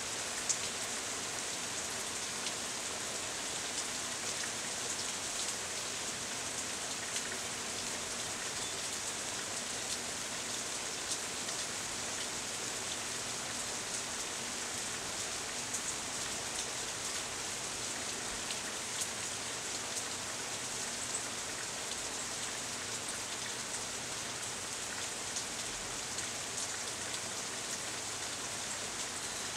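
Steady rain shower: an even hiss of falling rain with scattered sharp ticks of single drops landing close by.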